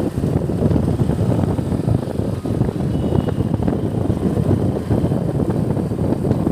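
Wind buffeting the microphone of a moving bike, heard as a loud, steady low rumble that flutters constantly without a clear engine note.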